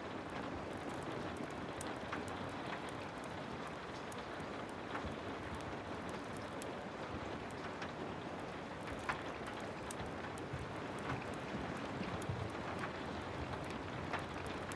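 Heavy rain falling steadily, an even hiss with scattered sharp ticks and crackles through it.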